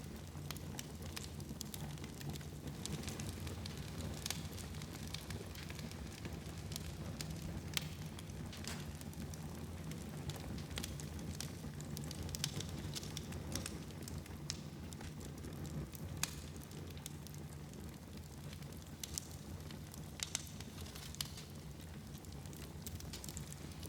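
Fire burning in a fireplace: a steady low rush of flame with frequent, irregular crackles and pops.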